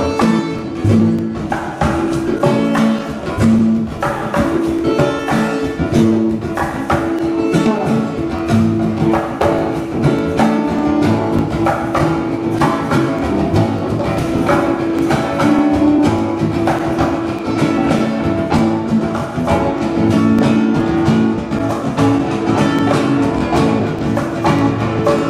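Live band playing the instrumental intro of a soul song, guitar over a steady beat, before the vocals come in.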